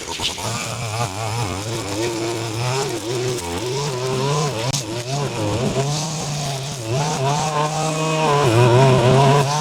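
Small two-stroke engine of a handheld power tool running, its pitch wavering up and down as it works under load, cutting through overgrowth.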